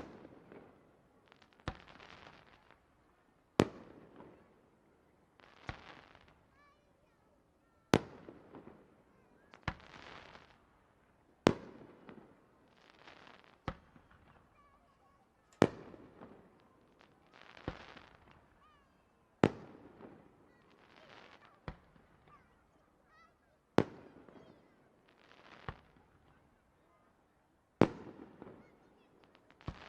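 Aerial fireworks shells bursting one after another, a sharp bang about every two seconds with a spell of crackling hiss between the bangs.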